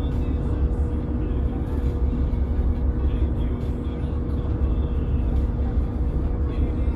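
Boat engine running steadily under way, a deep rumble with a constant hum.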